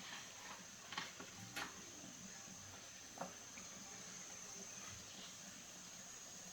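A few faint, short clicks and taps, about three of them, over a steady high-pitched whine.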